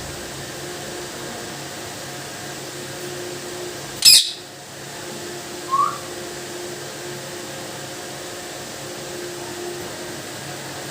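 Indian ringneck parrot giving one short, sharp screech about four seconds in, then a brief rising whistle about two seconds later, over a steady background hum.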